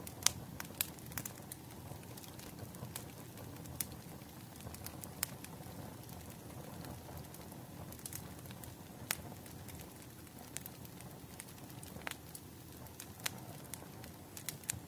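Firewood burning in a bonfire, crackling: a steady low rumble of flame with irregular sharp pops and snaps scattered throughout, a few of them louder.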